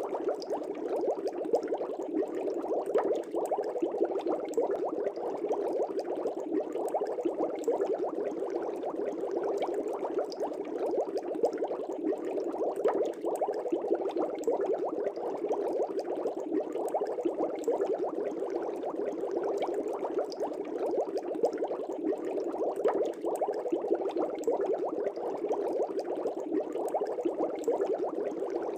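Aquarium air bubbles rising and breaking at the water surface, a steady dense bubbling with no let-up.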